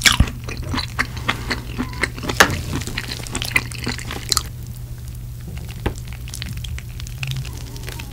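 Close-miked wet chewing and mouth clicks for the first four seconds or so, then quieter, sparser clicks and wet sauce sounds as chopsticks lift spicy tteokbokki from its sauce. A steady low hum runs underneath.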